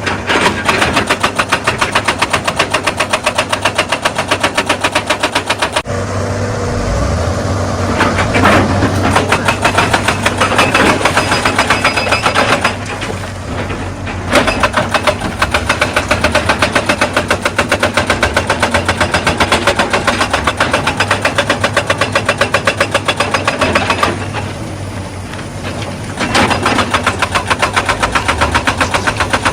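Excavator-mounted hydraulic rock breaker hammering stone in a rapid, even rattle over the diesel engine's running, stopping briefly three times: about six, thirteen and twenty-four seconds in.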